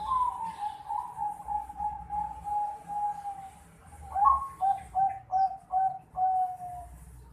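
Young Bangkok-line zebra dove (perkutut), about four and a half months old, cooing: one long rapid trill for about three and a half seconds, then after a short pause a run of about six short separate notes.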